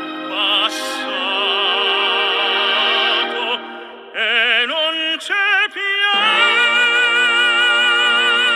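Operatic singing with strong vibrato over accompaniment: long held notes, a brief drop in level about halfway, a few short phrases, then a long sustained high note.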